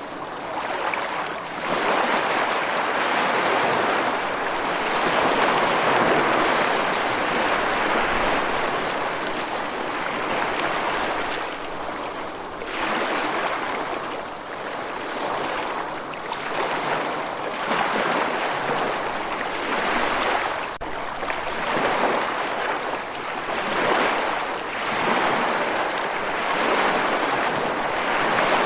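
Rushing water noise that swells and eases every two to four seconds, like surf washing in or fast water in a river. There is no thunder.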